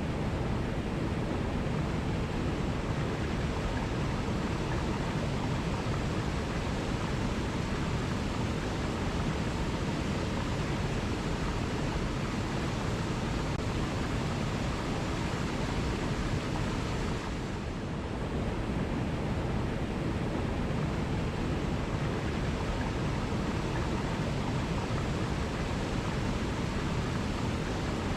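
Rushing water from a waterfall: a steady, full roar with no birdsong above it, dipping briefly about seventeen seconds in.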